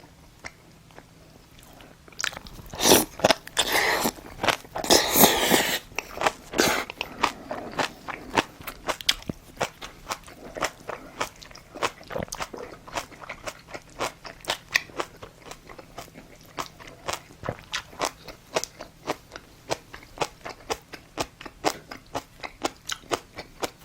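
Close-miked mouth sounds of someone eating spicy braised monkfish: a few seconds of loud crunching and biting, then steady chewing with sharp wet clicks about two or three times a second.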